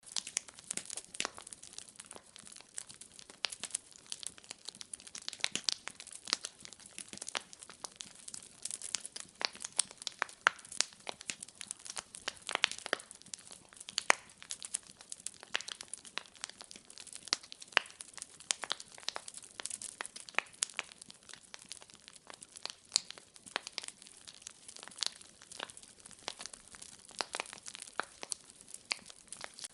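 Wood fire crackling in a fireplace: a steady run of sharp, irregular pops and snaps, several a second, over a faint hiss.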